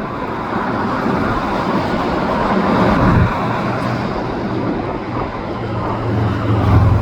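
Highway traffic passing in a steady wash of tyre and engine noise, mixed with the rolling of a slow freight train of autorack cars. A heavier vehicle's low engine hum comes in near the end.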